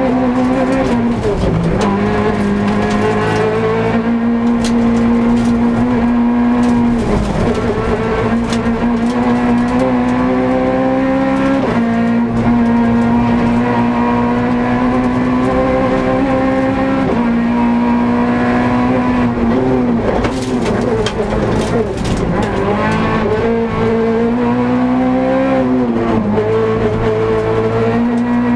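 Peugeot 208 R2 rally car's naturally aspirated 1.6-litre four-cylinder engine running hard at high revs, heard from inside the cabin. The revs drop and climb again several times through the stretch as the driver shifts and lifts.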